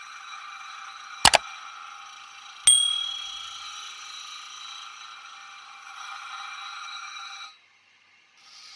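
A sharp double click, then a single bright metallic ding that rings out and fades over about a second, like a steel blade being struck. Behind it runs a steady high-pitched hum that cuts out briefly near the end.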